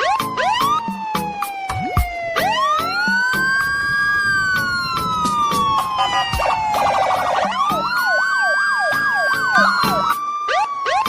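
Siren-like wailing tones that sweep up quickly and then fall slowly over several seconds, repeating, over a fast ticking beat.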